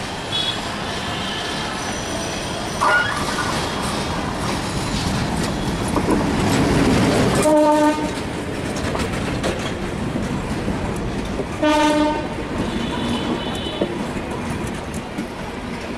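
Diesel locomotive hauling an intercity passenger train past at close range. The engine and the coaches' wheels on the rails rumble steadily, loudest as the locomotive goes by about halfway through. The horn sounds two short blasts, about eight and twelve seconds in.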